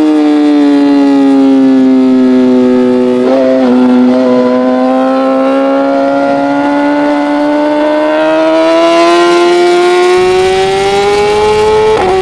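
Racing motorcycle engine running hard at high revs. Its note sags slowly with a brief break a few seconds in, then climbs steadily and drops abruptly near the end as a gear is shifted.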